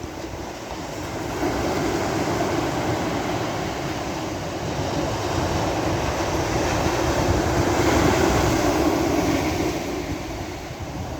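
Sea waves washing onto a shore: a continuous rush of surf that swells twice, loudest about eight seconds in, then eases off near the end.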